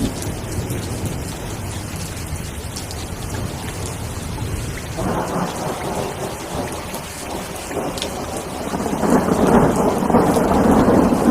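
Steady rain falling during a thunderstorm, with thunder rumbling. The thunder swells louder about nine seconds in.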